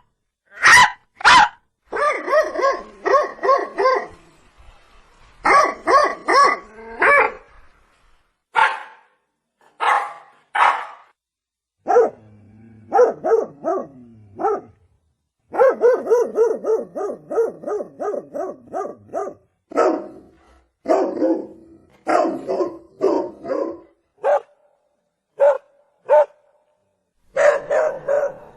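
Dog barking over and over, in single barks and quick runs of several barks, with short pauses between.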